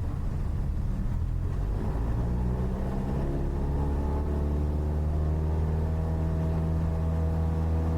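Cessna 172's propeller engine throttling up to full power for the takeoff after a touch-and-go landing, its pitch rising from about two seconds in, then holding steady.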